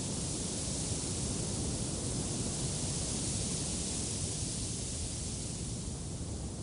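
Wind blowing, a steady rushing noise that swells a little midway and eases slightly near the end.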